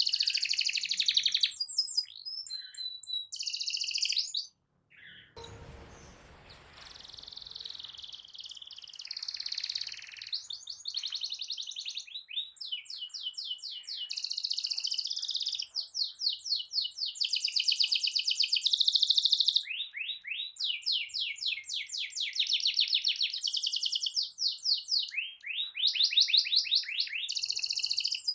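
Domestic canary singing a long rolling song of fast trills and rapidly repeated notes. The song breaks off briefly about five seconds in and resumes, with a couple of seconds of hissy noise under it.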